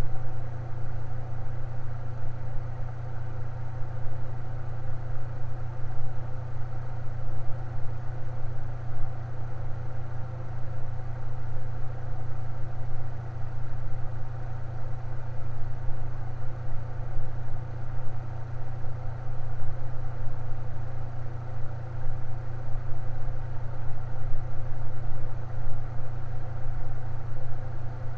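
Fan running steadily, with a strong, unchanging low hum.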